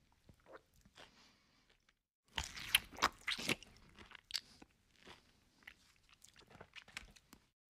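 Close-up chewing and crunching of food by a person eating duck curry with rice by hand, with a loud run of crunchy bites about two to three and a half seconds in. The sound cuts off abruptly near the end.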